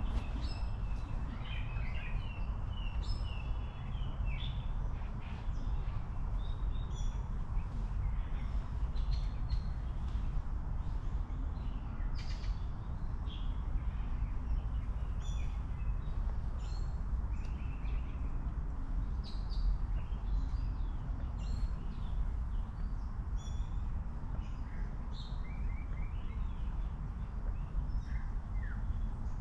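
Small birds chirping and tweeting on and off over a steady low background rumble.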